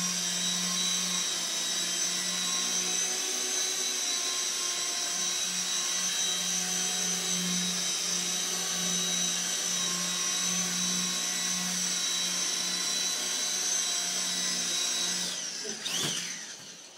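Small electric RC helicopter (Walkera CB180Q) hovering, its motor and rotor giving a steady high whine. About fifteen seconds in the whine drops in pitch and dies away, with a few sharp knocks as it stops.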